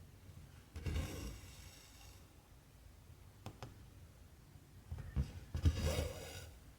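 Cotton embroidery thread drawn through cross-stitch cloth: two soft rasping pulls, with a couple of small ticks from the needle in between.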